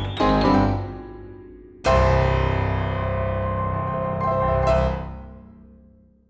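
Piano music: a few struck notes, then a loud chord about two seconds in that rings on, with another accent near five seconds, before dying away to silence near the end.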